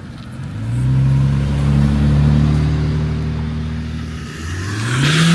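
A car's engine driving past close by: a steady engine note for a few seconds, easing off briefly, then rising in pitch near the end as the car accelerates away.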